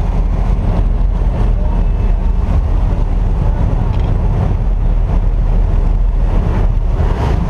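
Loud, steady rush of air noise buffeting the microphone, heaviest in the low end, with no let-up.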